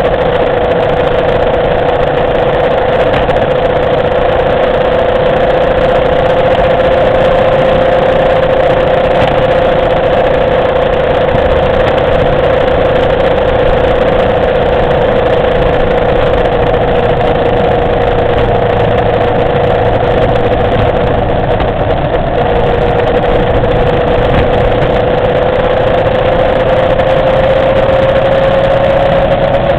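Motorcycle engine running steadily at cruising speed, with a strong steady engine note over a rushing haze. The note sags a little about two-thirds of the way through, then climbs near the end as the bike speeds up.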